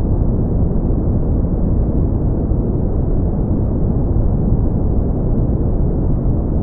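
Steady brown noise: an even, low rumbling hiss with most of its weight in the bass and little above the midrange, unchanging throughout.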